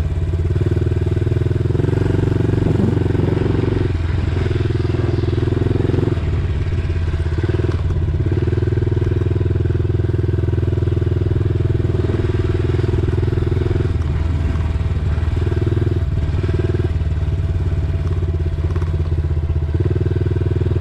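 Dirt bike engine running while riding, loud and steady, its note rising and dropping back every few seconds as the throttle is opened and eased off.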